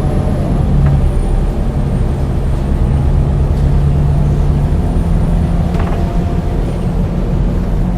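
Scania DC9 9-litre six-cylinder diesel bus engine running steadily with the bus under way; its note shifts about five seconds in. A thin high whine sits above it, and there is a brief rattle near six seconds.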